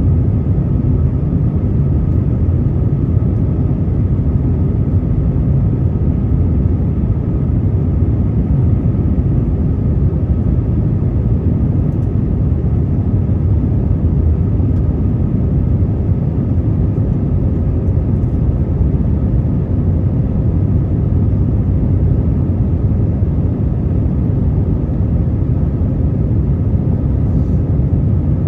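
Steady cabin noise of an Airbus A321 in flight: an even, deep rumble of engines and airflow heard from inside the cabin, with a faint steady hum on top.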